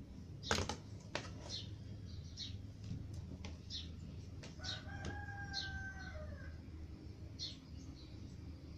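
A rooster crowing in the middle, one drawn-out call that holds its pitch and then falls, while a small bird chirps repeatedly with a short, high, falling chirp about once a second. Two sharp knocks come about half a second and a second in, over a steady low hum.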